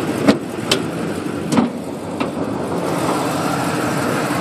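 1969 Oldsmobile 442's V8 idling steadily. It is broken by four sharp metallic clicks and clunks in the first couple of seconds as the hood latch is released and the hood is lifted.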